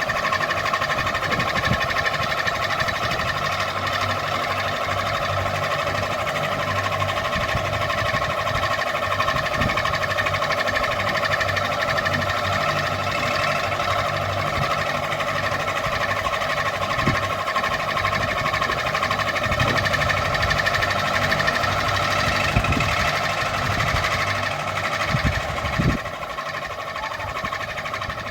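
Ceiling fan running steadily, a constant whir with a few faint low thumps. It turns quieter near the end.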